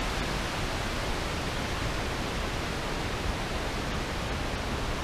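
Steady, even rushing hiss of a camera's microphone held underwater.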